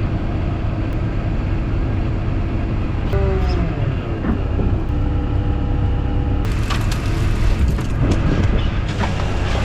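Tractor engine running steadily, its pitch sinking and shifting about a third of the way in, with a crackling hiss added over it in the second half.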